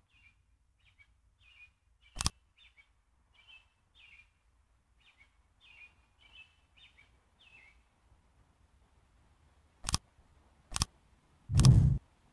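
A string of short, high bird chirps for about eight seconds, with three sharp clicks and a louder low thump near the end.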